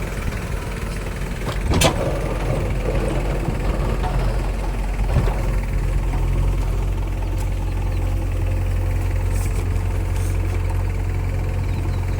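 Diesel engine of a tractor or backhoe loader running steadily at low revs, with a sharp clank a couple of seconds in and a smaller knock about five seconds in.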